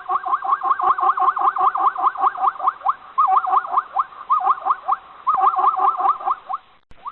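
An animal giving a rapid series of short, rising, pitched calls, about six a second, in three runs with brief pauses between them.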